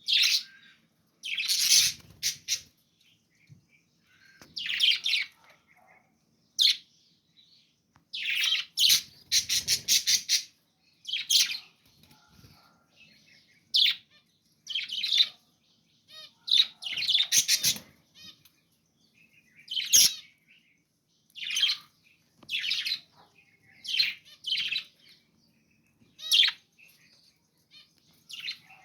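Budgerigars chirping and squawking in short high-pitched bursts every second or two, some of them quick rattling chatter, with brief pauses between.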